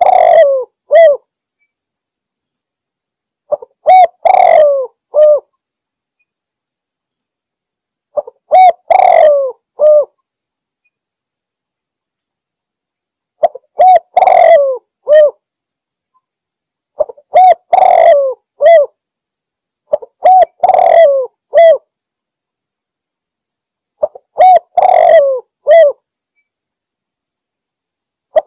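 Spotted dove (tekukur) cooing its territorial calling song. Seven phrases come every three to five seconds, each a short lead note, a longer dipping coo and a clipped final note, with silence between them.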